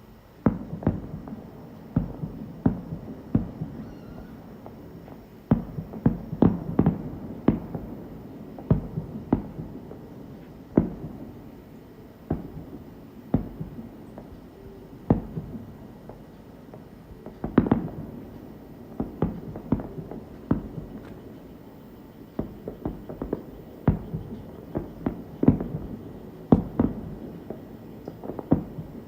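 Fireworks shells bursting overhead in a long irregular series of sharp bangs, each trailing a low rumble, with several quick clusters of bursts.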